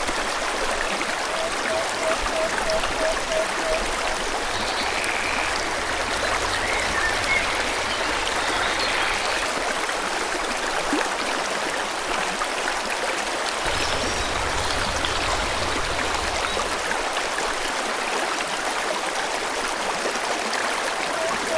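Stream water flowing and splashing steadily, with birds chirping over it. About a second in, and again near the end, comes a quick run of short, evenly repeated low notes.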